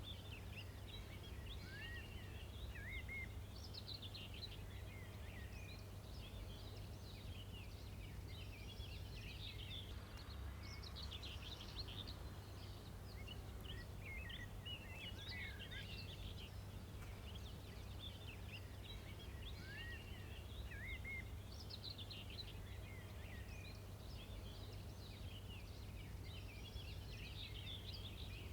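Small birds chirping and singing throughout, many short sweeping notes, over a faint steady low hum.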